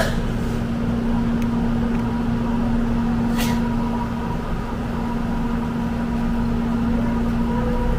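Commuter electric train running: a steady rumble with a constant low hum. There is a short click at the start and a brief hiss about three and a half seconds in.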